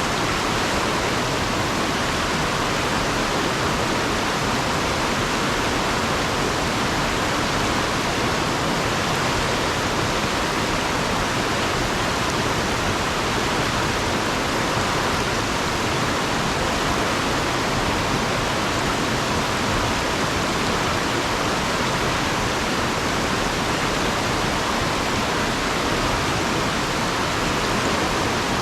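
Fast-flowing river water rushing over and around rocks: a steady, unbroken roar.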